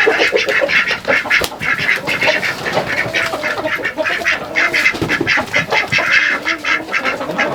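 A flock of ducks quacking loudly, many short calls overlapping without a break.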